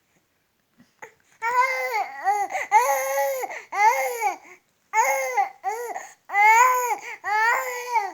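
Three-month-old baby vocalising, a string of drawn-out, high-pitched cooing and babbling sounds whose pitch rises and falls, starting about a second and a half in with short pauses between them.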